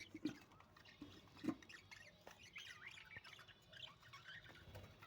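Budgerigars chattering faintly, many quick chirps and squawks overlapping, with a soft bump about a second and a half in.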